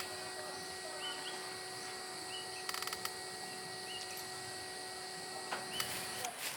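Outdoor insects droning steadily, with a bird giving short rising chirps every second or so. A faint steady hum runs under them and stops near the end.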